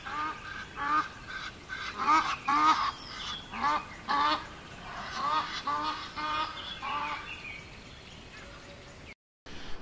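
A bird calling with short honking calls, about a dozen of them in a loose, irregular series over the first seven seconds. The sound drops out completely for a moment just before the end.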